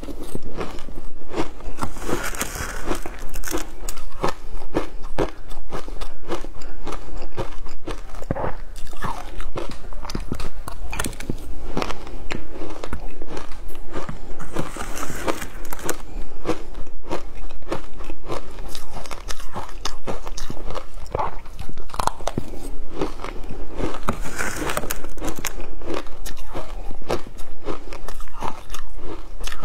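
Shaved ice being bitten and chewed: a loud, dense, continuous run of crunches.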